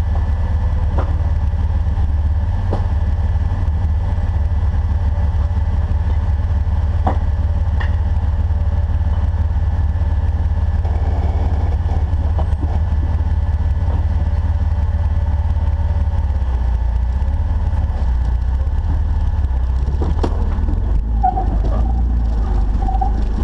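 Off-road Jeep's engine running steadily at low revs, a heavy low rumble, with occasional sharp knocks scattered through it.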